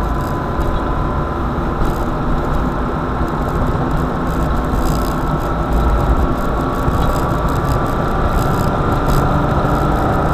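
A car driving, with steady engine and road rumble and a faint steady whine above it.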